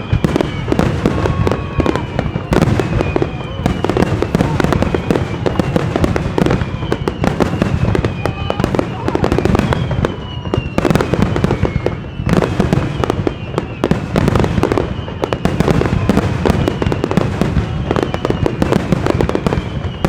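Fireworks finale: a continuous rapid barrage of shell bursts and crackling, with short whistles gliding down in pitch every few seconds.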